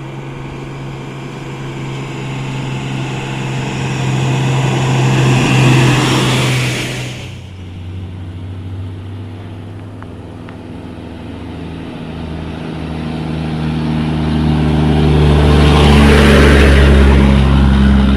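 Diesel engines of heavy trucks passing one after another. A crude-palm-oil tanker truck swells in and is loudest about six seconds in, then drops away. A second heavy vehicle with a deeper engine note builds up and is loudest near the end.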